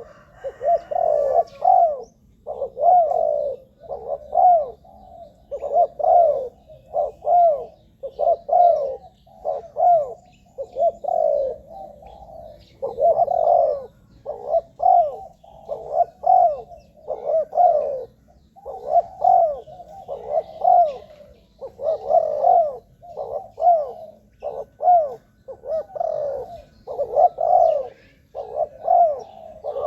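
Spotted dove cooing, its short phrases repeated one after another with brief pauses between them.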